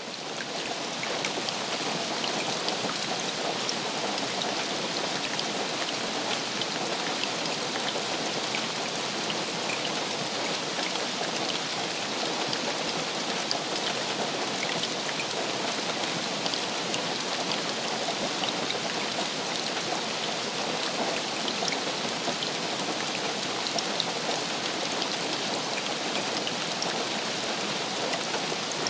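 Steady rainfall: a dense, even hiss with many small drop ticks that holds level throughout.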